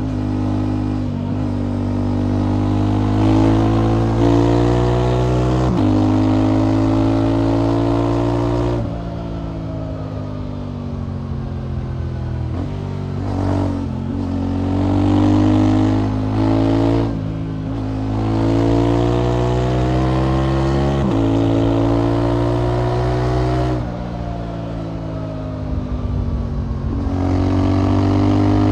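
Motorcycle engine and aftermarket exhaust under way, accelerating through the gears: the engine note climbs in each gear and drops at each upshift, easing off twice into quieter stretches before pulling again.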